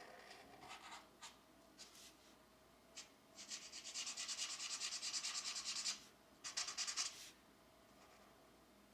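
Pencil coloring on a coloring-book page: a few short strokes, then about two and a half seconds of rapid back-and-forth shading, then two brief strokes.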